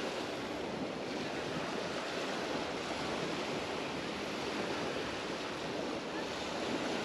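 Sea waves washing onto a beach, a steady surf wash with no single crash standing out.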